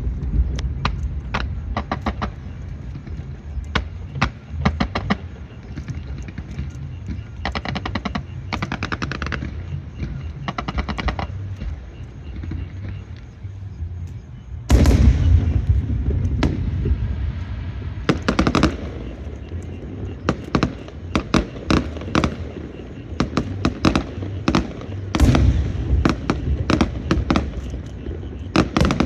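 Firecrackers and fireworks going off in rapid crackling runs of sharp bangs, with a sudden heavier, louder burst about halfway through and another near the end.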